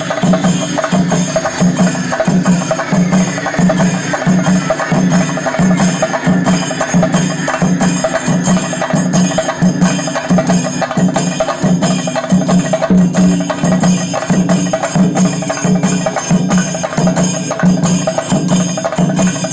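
Chenda melam: Kerala chenda drums beaten with sticks in a fast, steady, driving rhythm, with the clash of ilathalam hand cymbals over it.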